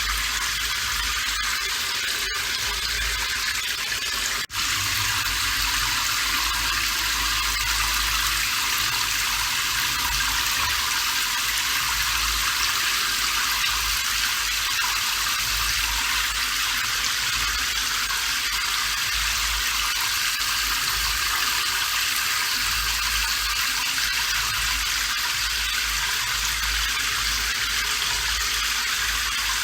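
Steady, continuous rain: an even hiss of falling water with a low rumble underneath. There is a brief dropout about four and a half seconds in.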